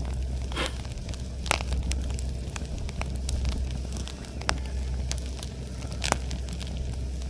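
Wood campfire burning with irregular sharp crackles and pops, over a steady low drone.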